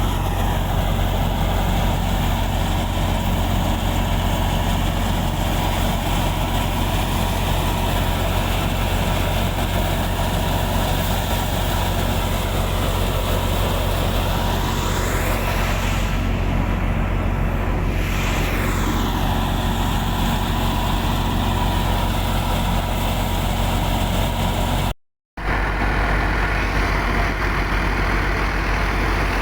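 A tractor engine running steadily under load, powering a wheat thresher, with the thresher's continuous mechanical din over the engine hum. The sound cuts out completely for a moment near the end, then resumes.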